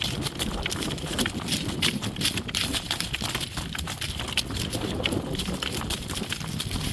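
Hoofbeats of a driving horse pulling a cart across a field, a steady run of sharp clops over a low rumble.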